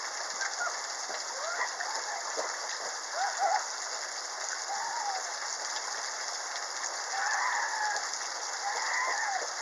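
Steady rain falling, a continuous hiss. Over it come short chirps that rise and fall, more of them from about seven seconds in.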